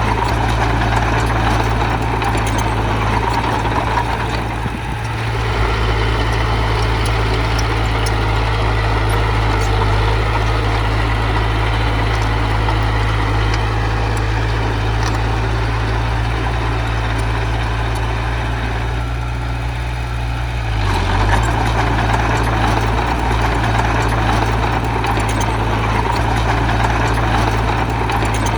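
Diesel engine of a working earth-moving machine running steadily, easing off briefly about five seconds in and again around twenty seconds in.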